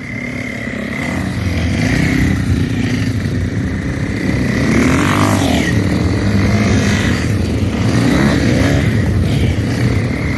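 Motocross bike engines running under load off-road, the engine note rising and falling as the throttle is worked, with loud rises about five and eight seconds in.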